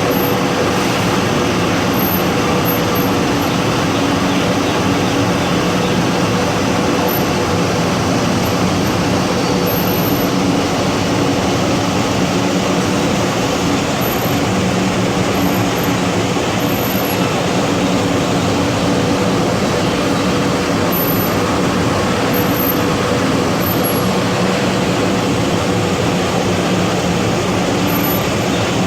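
Cyclonic rice-husk furnace plant for a paddy dryer running at full operation: a loud, steady industrial roar with a constant low hum.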